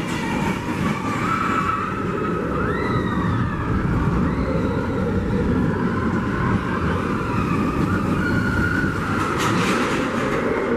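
Expedition Everest roller coaster train running along its track: a steady rumble with wheels squealing, rising and falling.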